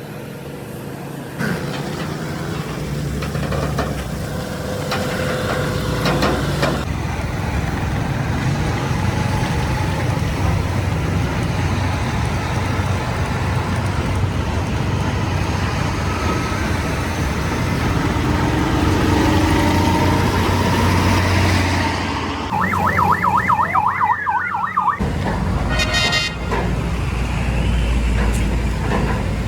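Heavy road vehicles running with steady low engine and road rumble, changing abruptly several times. Near the end, a siren yelps rapidly up and down for about two seconds.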